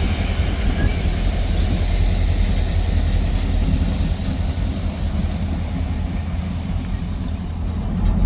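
A train rolling past with a steady low rumble.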